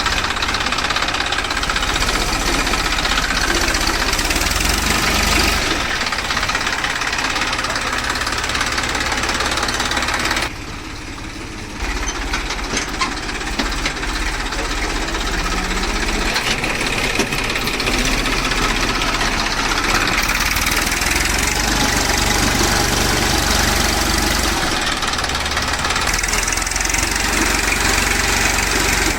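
Massey Ferguson tractor's diesel engine running steadily with its clatter. The level drops briefly about ten seconds in, then the engine carries on as before.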